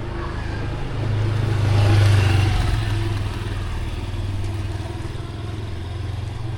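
A motor vehicle's engine passing close by on a wet road, swelling to its loudest about two seconds in and then easing off, over a steady hiss of rain.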